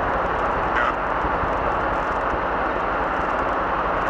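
Robinson R22 helicopter's piston engine and rotor running steadily, a constant cabin drone with a fast low pulsing underneath.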